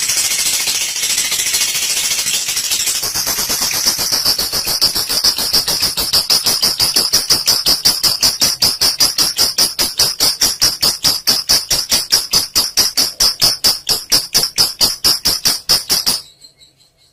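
Lovebird giving a long 'ngekek' chatter: a dense high-pitched twittering that settles about three seconds in into a fast, even run of sharp repeated notes, about six a second, cutting off abruptly near the end.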